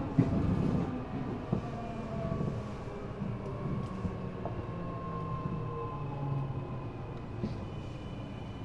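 High-pitched Mitsubishi three-level VVVF inverter on an Eidan 6000 series subway car (a unit taken from the 7000 series) whining under braking, its tones falling in pitch as the train slows into a station, over wheel and track rumble with a few knocks. Near the end a new high steady tone comes in.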